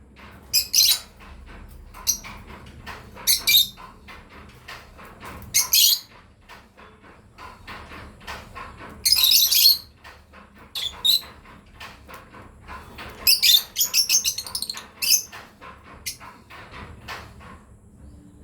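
Lovebirds chirping in short, shrill bursts every few seconds, with fainter chatter in between. The longest, loudest burst comes about nine seconds in, followed by a busy run of chirps a few seconds later.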